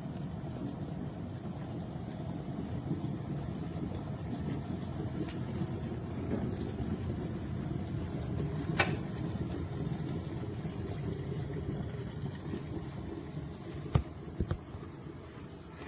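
Electric kettle heating water: a steady low rumble that eases a little toward the end, with a sharp click about nine seconds in and another near the end.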